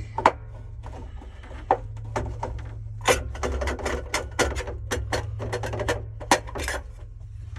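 Irregular clicks and knocks of hard parts and tools being handled, over a steady low hum.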